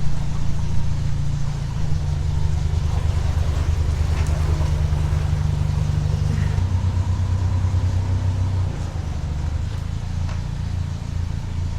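Narrowboat's diesel engine running at low revs, with its note shifting twice.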